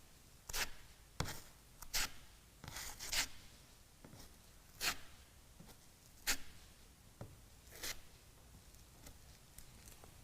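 Spreader scraping polyester fairing compound across a fiberglass boat hull in short, irregular strokes, about eight of them.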